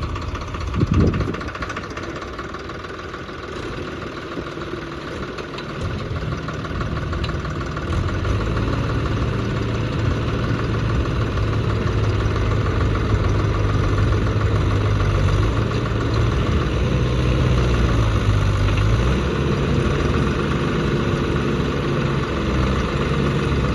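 Deutz-Fahr tractor's diesel engine running, with one sharp knock about a second in. From about six seconds in it revs up and holds at higher, heavier revs as the tractor works against being stuck in mud.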